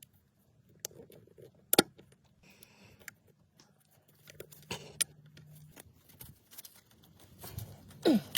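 Scattered light clicks and knocks of hand work, the sharpest about two seconds in, with a faint hum in the middle and a short falling-pitch sound near the end.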